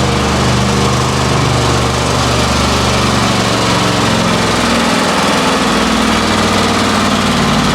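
Heavy truck's diesel engine running loudly and steadily, its pitch shifting slightly about three seconds in.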